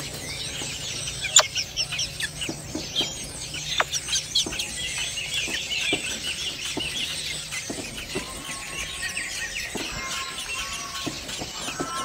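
Dense high-pitched bird chirping, many quick overlapping calls, with scattered sharp clicks, most of them in the first half.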